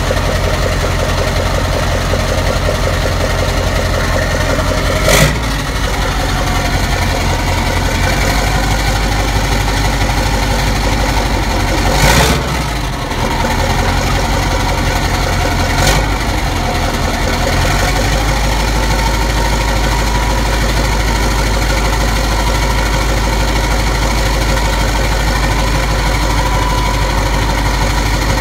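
Straight-piped Mack E9 V8 diesel in a Renault Magnum AE 560 truck, idling with a steady, loud exhaust note. Three short, loud bursts break through the idle in the first half.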